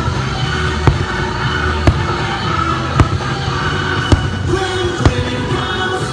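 Fireworks going off about once a second in sharp bangs, over the show's music playing from park loudspeakers.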